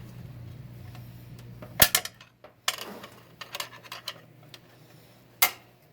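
Sharp metallic clicks and a short clatter of 4L60-E transmission parts being handled during teardown, with a low hum that stops about two seconds in.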